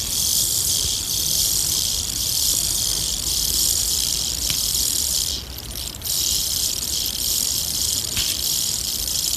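Rattlesnake tarantula (Queensland whistling tarantula) giving its warning hiss, made by rubbing its fangs together: a steady high-pitched hiss that breaks off briefly about halfway through.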